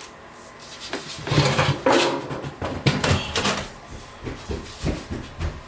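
Irregular metal clunks, knocks and scraping as the furnace blower assembly and its parts are handled and pushed back into place.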